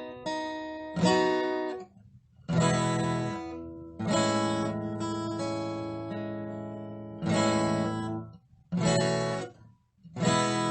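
Acoustic guitar strumming chords, each struck and left to ring for a second or more, with brief silent breaks between some of them.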